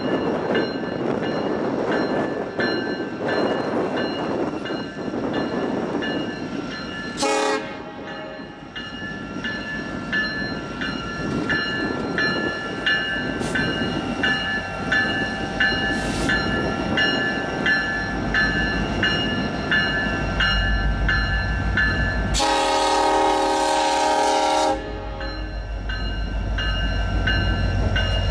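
BNSF freight train rolling by, its wheels giving a steady high-pitched squeal over the clatter of the cars. The diesel locomotives' rumble builds in the second half as they draw near. The horn sounds with a short toot about seven seconds in and a louder blast of about two seconds near the end.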